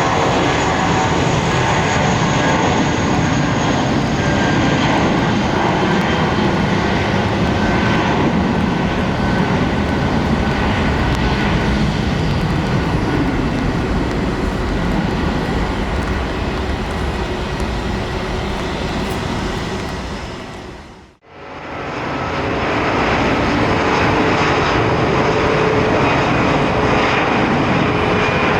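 Airliner jet engines running loud and steady, a dense rush with a thin high whine over it. About two-thirds of the way through, the sound dips briefly to near silence and comes back up.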